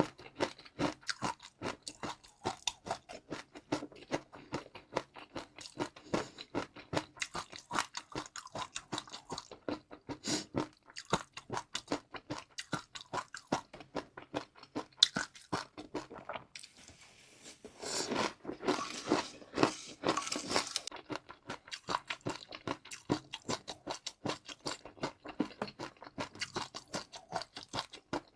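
Close-up chewing of crunchy food: a steady run of sharp crunches, several a second. There is a short lull about sixteen seconds in, followed by a few seconds of denser, louder crunching.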